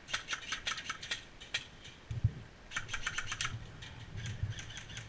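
Scattered sharp clicks and crackles in irregular clusters, densest about three seconds in, with a couple of low thumps.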